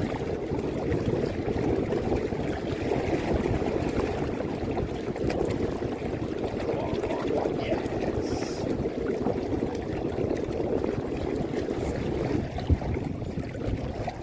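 Water rushing and splashing along the hull of a sailing canoe moving under sail, with wind buffeting the microphone. A single sharp knock comes near the end.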